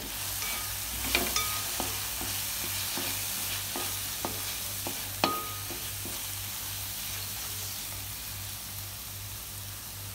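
Chopped onion, tomato and turmeric and coriander powder sizzling in hot coconut oil while a slotted spatula stirs them around the pan. A string of light knocks of the spatula against the pan runs about twice a second for the first six seconds, with one sharper clack about five seconds in.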